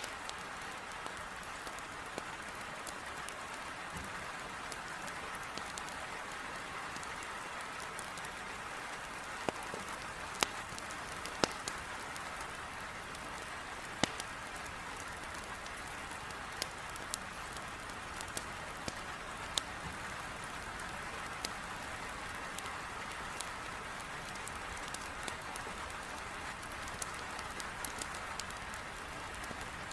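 Heavy rain beating on a window pane, a steady even hiss, with a wood fire in a fireplace crackling in sharp scattered pops, a few of them louder.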